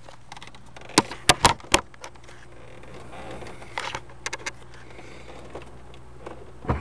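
Steady low hum of a car running, heard inside the cabin, with a quick run of four sharp clicks about a second in, a few lighter clicks a few seconds later and a thump near the end.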